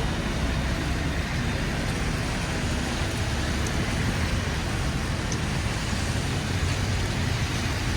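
City street traffic noise: a steady rumble and hiss of passing vehicles.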